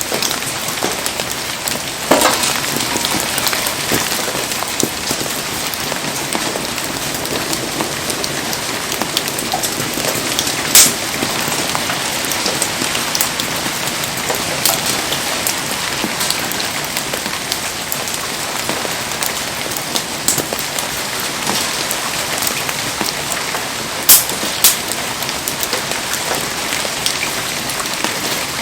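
Heavy rain falling steadily in a dense hiss, with a few sharp pops or cracks standing out above it, the loudest about a third of the way in and another pair near the end.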